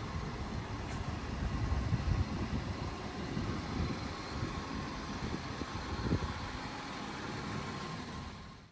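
Ford Mondeo ST24's 2.5-litre V6 engine idling as a steady low rumble, swelling slightly about two seconds in and fading out at the end.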